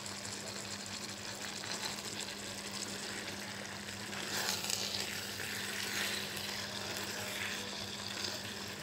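Minced beef and potato curry sizzling in a nonstick wok. From about four seconds in, a silicone spatula stirs the freshly added salt and ground spices through, with scraping and louder sizzling.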